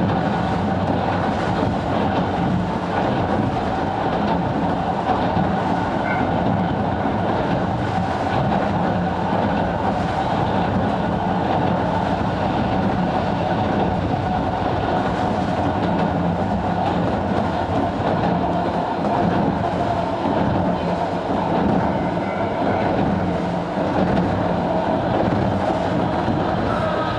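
Interior running noise of a Sangi Railway 270-series narrow-gauge (762 mm) electric train under way: a steady rumble of wheels on rail with a faint whine held under it.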